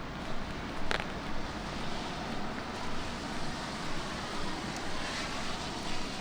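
Footsteps on wet pavement at a steady walking pace, about two steps a second, over a hiss of light rain. A vehicle's tyres swish past on the wet street, swelling and fading from about four to six seconds in.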